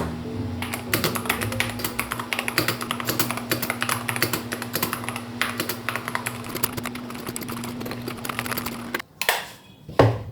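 Typing on a computer keyboard: a fast, steady run of keystrokes that breaks off about nine seconds in, leaving a few separate key clicks.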